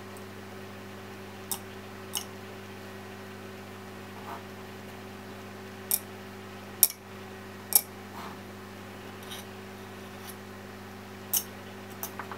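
About eight scattered sharp clicks and taps as small laptop parts and tools are handled during disassembly, the loudest three around the middle, over a steady electrical hum.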